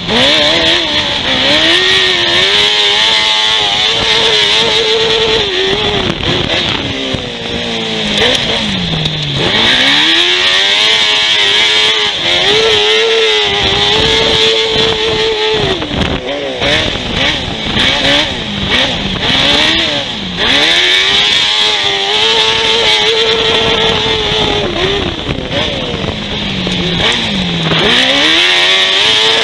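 Grasstrack racing sidecar outfit's engine at full race speed, heard onboard. The note is held high for long stretches, then drops sharply in pitch and climbs straight back up about four times as the throttle is rolled off for the bends and opened again. A steady high hiss runs over it.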